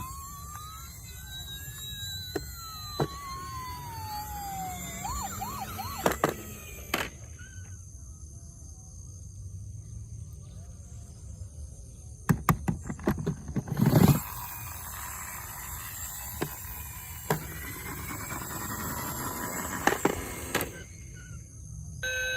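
Toy vehicle's electronic siren, a tone gliding up and then down over the first few seconds, over a low steady hum. There are sharp clicks and knocks of plastic toys being handled, in clusters about six, thirteen and twenty seconds in.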